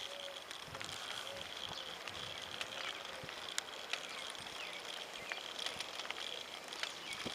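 A Giant Revive semi-recumbent bicycle rolling along, with scattered light clicks and ticks, over a steady high insect buzz of crickets.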